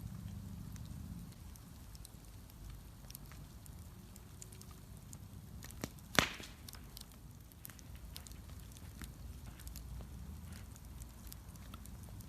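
Bonfire crackling, with scattered sharp snaps and one loud pop about six seconds in, over a low steady rumble.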